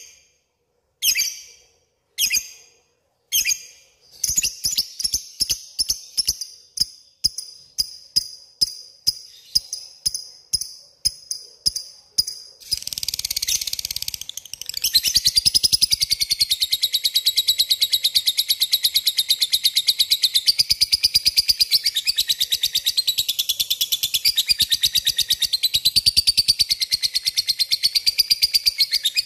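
Lovebird calling: separate shrill chirps about a second apart, quickening to about two a second, then breaking about halfway into a long unbroken rapid chattering trill, the prized 'ngekek' song.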